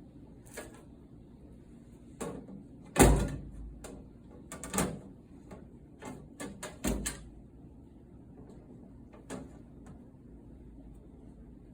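Scattered clicks and knocks of hand tools and screws against the dryer's sheet-metal casing as its panels are screwed back on. The loudest is a single thump about three seconds in, and there is a quick run of taps around the seventh second.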